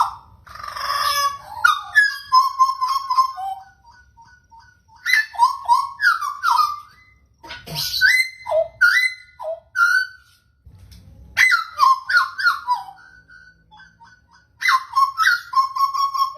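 Pied butcherbird singing: phrases of clear, fluting whistled notes that slide up and down in pitch, given in five bursts with short pauses between them.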